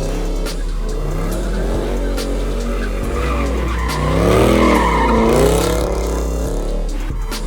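A car's engine revving up and down over and over, with tyres squealing and skidding as the car slides. The loudest rev swell comes about four seconds in.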